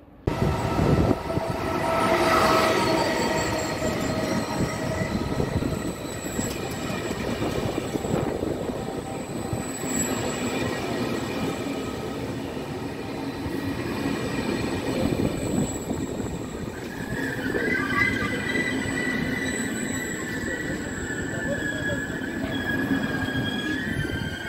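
Trenord double-deck passenger train running in along the platform, a steady rumble of wheels on rail that starts abruptly. From about two-thirds of the way through, a high, steady wheel-and-brake squeal rises over it as the train slows to stop.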